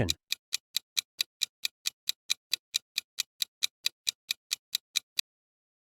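Ticking clock-style countdown sound effect, about five even ticks a second, stopping about five seconds in.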